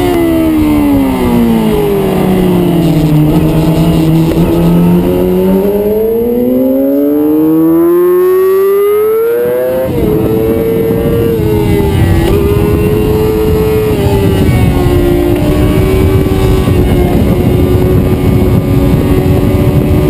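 Yamaha YZF-R6 inline-four sportbike engine heard from onboard at speed. The revs fall over the first few seconds as the bike slows for a bend, stay low, then climb until an upshift about halfway through. The engine then runs fairly steady at high revs and rises again near the end, under heavy wind noise on the microphone.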